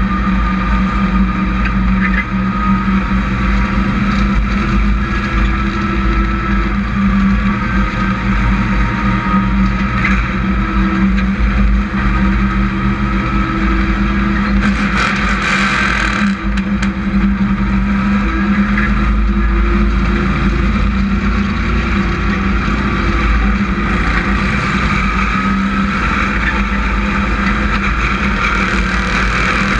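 Hobby-class race truck engine running steadily at speed during a heat race, with a brief rush of louder noise about halfway through.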